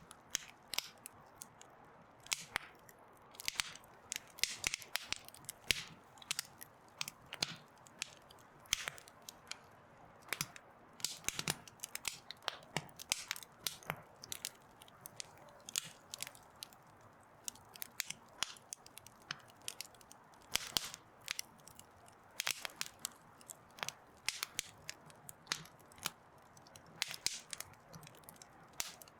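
Wood campfire burning, crackling and popping irregularly over a soft steady hiss.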